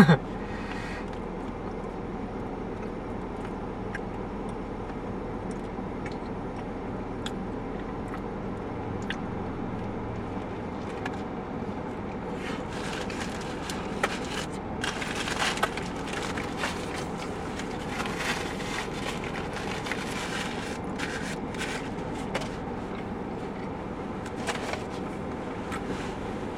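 Paper takeout bag rustling and crinkling, in scattered bursts from about twelve seconds in, over a steady background hum.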